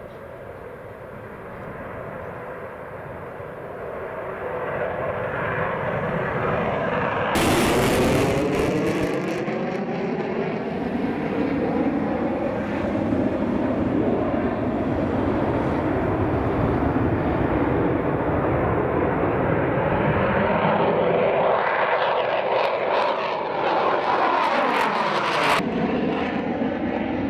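Jet roar of a Eurofighter Typhoon's twin EJ200 turbofans, building over the first several seconds and then staying loud, with sweeping shifts in tone as the aircraft passes. The sound changes suddenly about seven seconds in and again near the end.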